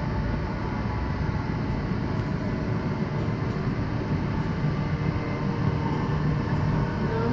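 Passenger train running along the line, heard from inside the carriage: a steady rumble of wheels on rails with a low hum that grows a little stronger about halfway through.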